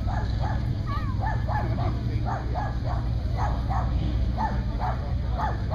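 A small dog barking repeatedly in short, high yaps, about two a second, over a steady low background rumble.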